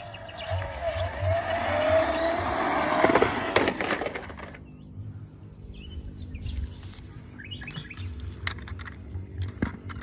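A loud wavering, sliding tone with a low rumble beneath it, cutting off abruptly about four and a half seconds in, followed by a few short rising bird-like chirps and light clicks.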